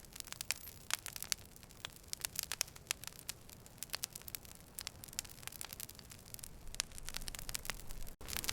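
Wood fire crackling: many irregular sharp pops and snaps over a low rumble of the burning logs. The sound cuts out for an instant near the end.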